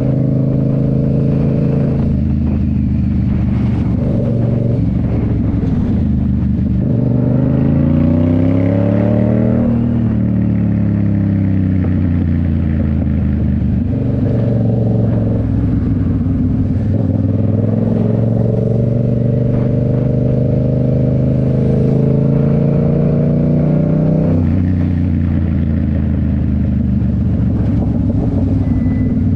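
Yamaha MT-07's 689 cc parallel-twin engine running through a Toce full exhaust while riding. The engine note climbs under acceleration from about seven to ten seconds in, then falls away. It climbs again from about seventeen seconds and drops off sharply at about twenty-four seconds.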